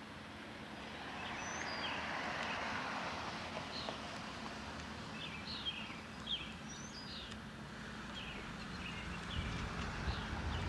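Small birds chirping in short, quick calls over a steady outdoor hiss. A low rumble comes in near the end.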